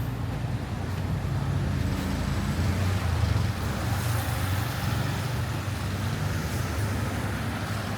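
Road traffic on a city street: a steady low rumble of vehicle engines with a general street noise haze over it.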